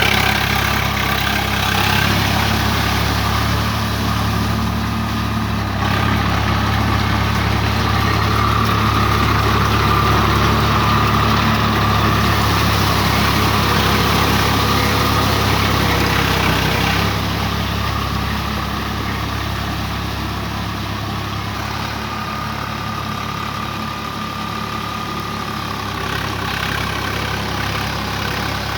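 Swaraj 744 FE tractor's diesel engine running steadily, a little quieter from about two-thirds of the way through.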